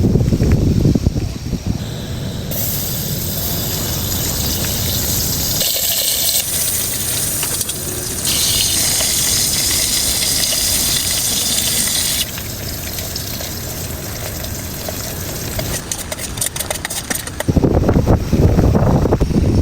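Heavy rain pouring down steadily, its hiss changing abruptly in brightness several times. Gusts of wind rumble on the microphone about a second in and again near the end.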